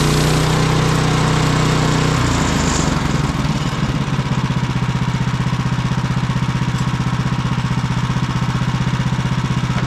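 Gasoline engine of a Woodland Mills HM130MAX bandsaw sawmill running at high speed, then throttled down about two seconds in and settling into a steady, even idle.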